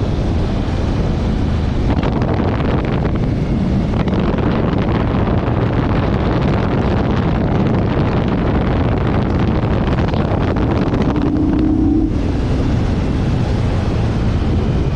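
Motorcycle riding at speed: wind buffeting the microphone over the steady run of the engine, with a short higher hum about eleven seconds in.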